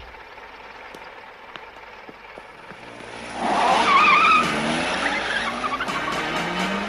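A car's tyres squeal loudly about three seconds in, with a wavering pitch, while its engine revs, rising and falling, during a chase.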